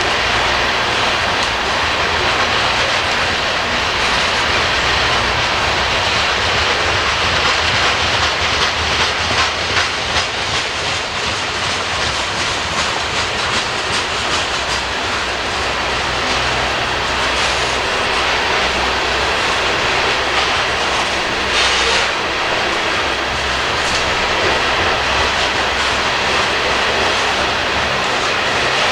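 Loaded BNSF coal train's hopper cars rolling past, a steady rumble with the wheels clicking over the rails.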